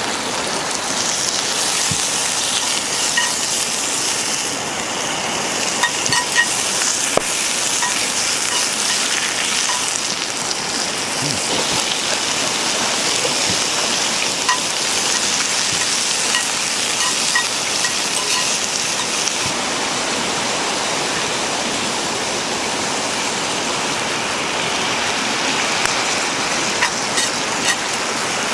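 Sukiyaki sizzling in a cast-iron skillet over a wood fire: a steady dense hiss with small pops and crackles scattered through.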